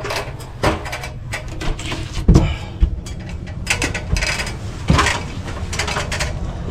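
Irregular knocks and clicks of handling or movement, with a heavier thump about two and a half seconds in, over a steady low rumble.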